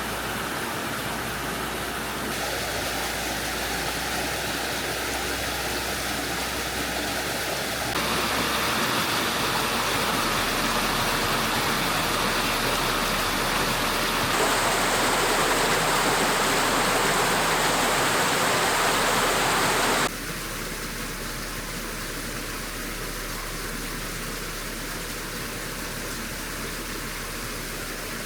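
Rushing creek water, a steady rush that jumps in level several times, loudest in the middle and dropping sharply about two-thirds of the way through.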